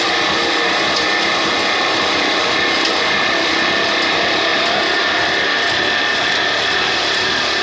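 Old desi 'kala' diesel oil engine running steadily, a continuous mechanical noise with a high whine in it.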